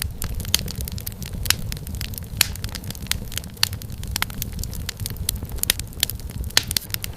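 Wood fire in a fireplace burning, with a steady low rumble and frequent sharp, irregular crackles and pops of firewood.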